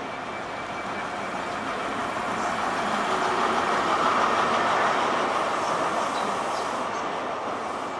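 InterCity 125 high-speed train, a Class 43 diesel power car leading Mark 3 coaches, running along the platform. The rumble of engine and wheels swells to its loudest about four seconds in as the power car goes by, then eases into the steadier run of the coaches over the rails.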